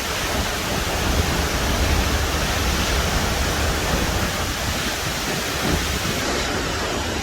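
Tat Niang waterfall rushing steadily, heard close to its base in the spray.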